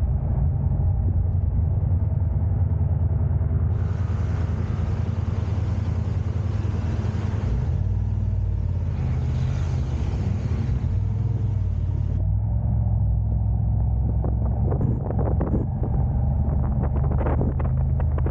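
A car being driven: a steady low rumble of engine and road noise. Near the end comes a run of brief knocks or rattles.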